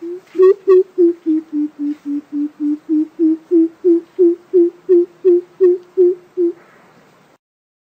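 Greater coucal calling a long series of deep, hollow hoots, about three a second. The notes sink lower over the first couple of seconds, climb back up, and stop about six and a half seconds in.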